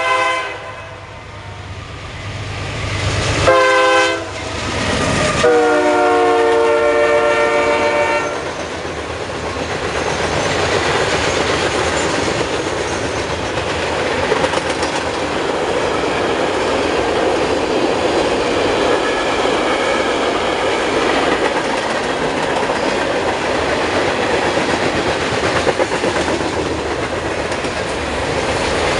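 Locomotive air horn sounding a chord: a blast ending right at the start, a short blast about three and a half seconds in, then a long blast lasting about three seconds. This is the close of a grade-crossing signal. The train then passes with a steady rumble and wheels clicking over the rail joints.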